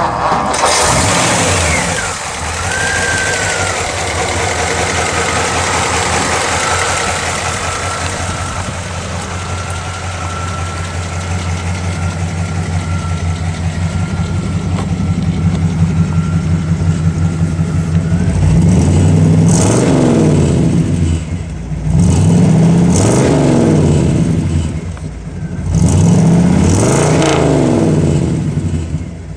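1954 Ford Customline's swapped-in 292 Y-block V8, with a four-barrel carburetor and glass pack mufflers, running at idle. In the last ten seconds it is revved three times, the engine note rising and falling with each blip.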